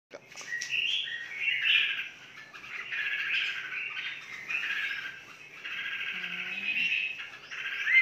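Caged small birds chirping and twittering almost without a break, several calls overlapping.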